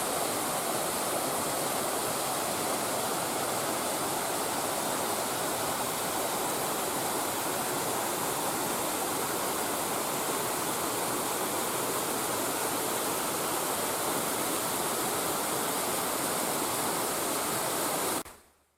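Steady rush of water from small waterfalls cascading over bedrock in a mountain stream, fading out near the end.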